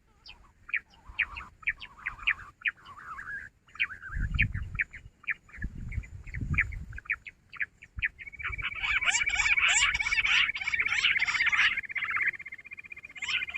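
Jungle bush quail calling: sparse short chirps at first, then from about 8 s in many birds calling at once in a dense, louder chorus. Two low rumbles come in the middle.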